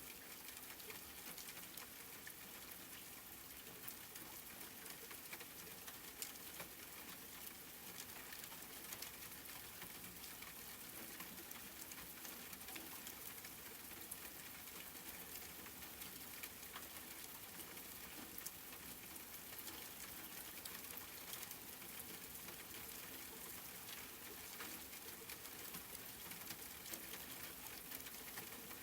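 Steady rain, many small drops pattering on a surface as an even hiss with scattered sharp ticks.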